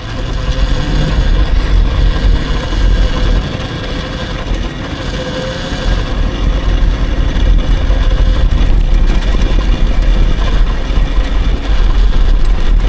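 Riding noise from an electric dirt bike: wind rumbling on the microphone with a faint steady motor whine over it. The rumble dips a little around the middle and comes back stronger.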